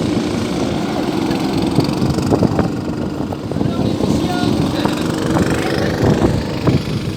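Go-kart engines running on the track, a loud, rough and uneven engine noise as karts drive past.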